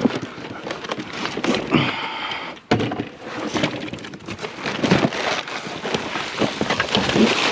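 Rummaging through a pile of discarded junk: irregular knocks, rustles and clatter of items being handled and moved, with a sudden loud knock a little under three seconds in.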